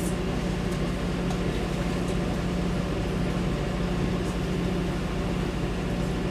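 Steady low drone of a river boat's engine running, with a constant low hum and no change in level.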